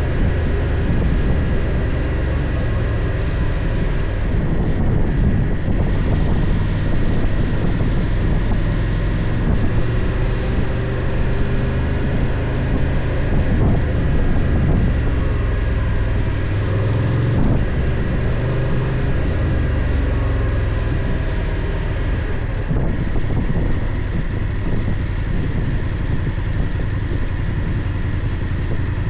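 BMW F 800 GS motorcycle engine running steadily while riding, with wind rushing over the microphone; the engine note rises and falls a little about halfway through.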